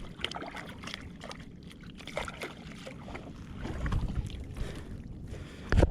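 Irregular knocks and handling noises on a fishing kayak over a low rumble, with one loud thump near the end.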